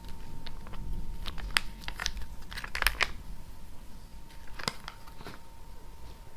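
Close-up crinkling and clicking handling sounds, a quick cluster of sharp crackles in the first half and a few more near the end, over a faint steady hum.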